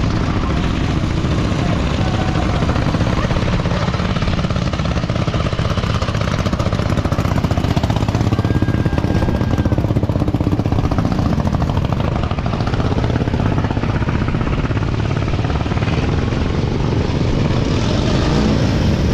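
Motorcycle engine running steadily, with rapid, even firing pulses.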